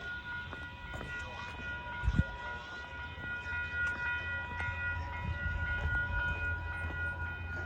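Level crossing bells ringing steadily, their tones held throughout, with a train's low rumble growing from about five seconds in as it approaches.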